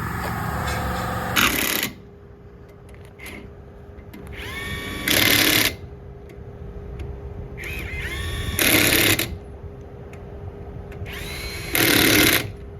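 Air impact wrench running in four short loud bursts about three and a half seconds apart, each preceded by a rising whine as it spins up.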